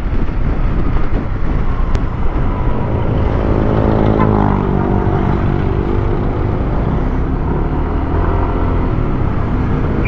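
Motor scooter riding through traffic: wind and road rumble on the microphone, with an engine's steady hum coming through from about four seconds in, easing slightly down in pitch and then holding. One sharp click about two seconds in.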